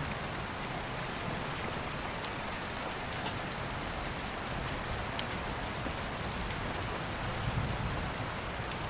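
Steady rain falling, an even hiss of drops, with a few sharp ticks scattered through it.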